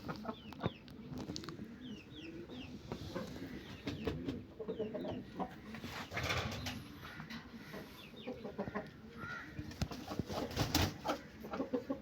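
Aseel chickens clucking in low, short calls, mixed with many brief high chirps and scattered clicks and knocks.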